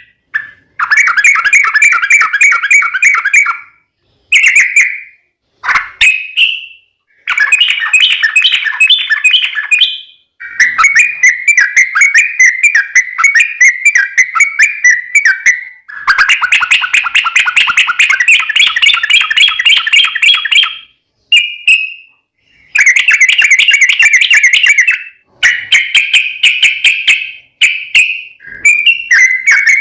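Yellow-vented bulbul singing in long, rapid, bubbling phrases, one after another with short breaks between them.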